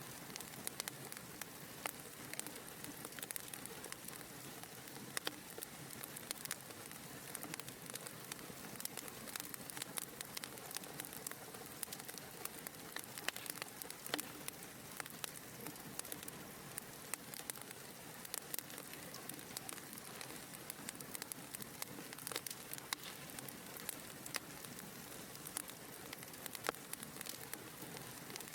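Wood fire burning in a fireplace: a soft steady hiss of flames with frequent irregular crackles and pops.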